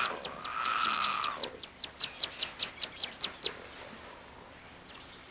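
Bird calls: two drawn-out buzzy calls, then a quick run of sharp chirps at about six a second that stops about three and a half seconds in, leaving a few faint chirps.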